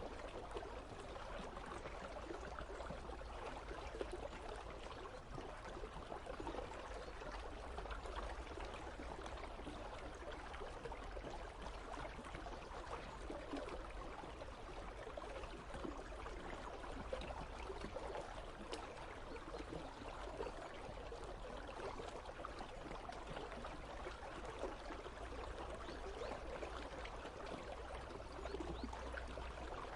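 Icy river flowing with a steady babble of moving water, over a low steady rumble.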